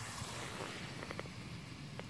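Thin potato slices deep-frying in oil in a cast-iron Dutch oven over a campfire: a steady low bubbling with a few faint crackles about a second in, the oil now at a temperature where the slices cook without burning.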